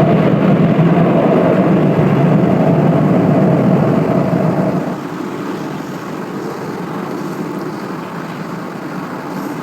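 Airliner engine noise, loud and steady, dropping in level and losing its lower notes about five seconds in.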